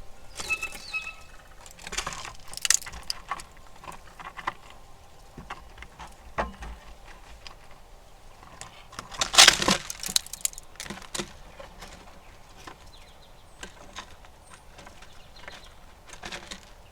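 Irregular clicks, cracks and scrapes of squirrels feeding and moving about on a platform feeder, with a longer, louder scraping burst about nine seconds in.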